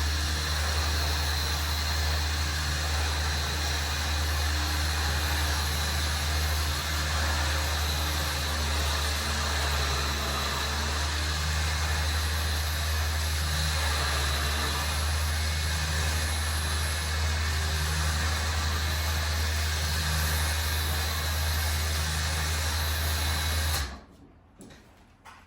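A vehicle engine running steadily at low speed, then shut off abruptly near the end.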